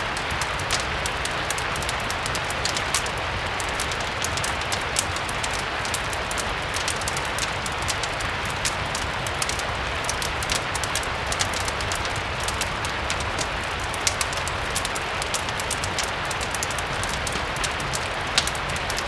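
Steady rain hiss with frequent small, sharp crackles and ticks from a wood fire mixed in, over a low steady rumble.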